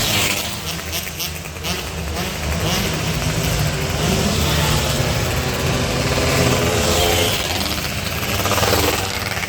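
Two-stroke 116cc underbone motorcycle engines revving, the engine pitch rising and falling several times.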